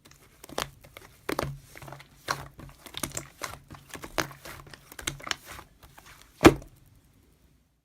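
Irregular sharp taps and crinkling rustles of something being handled, over a faint steady low hum; the loudest tap comes about six and a half seconds in.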